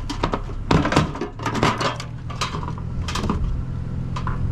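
Clunks and rattles of scrap items being handled and shifted, a run of irregular knocks over a steady low hum.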